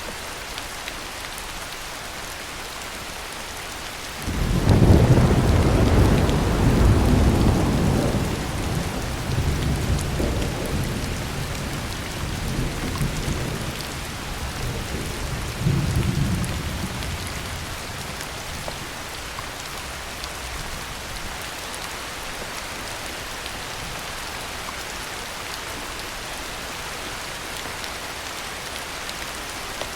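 Steady heavy rain with a peal of thunder that breaks in suddenly about four seconds in. The thunder rolls on in several swells for over ten seconds before dying away under the rain.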